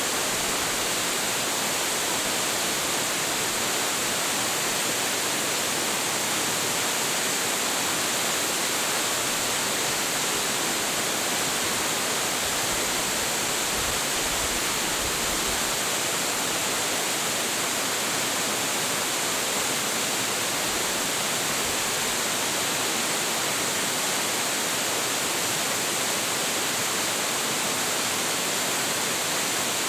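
A large waterfall with heavy flow, water crashing steadily into its plunge pool as a constant full rush of noise.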